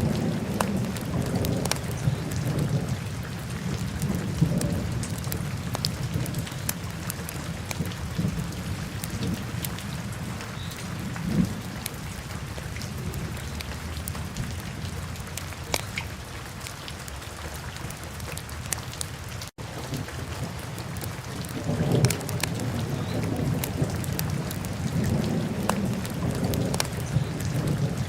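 Wood fire burning in a fireplace: a low steady rumble of flames with scattered sharp crackles and pops. The sound cuts out for an instant about two-thirds of the way through.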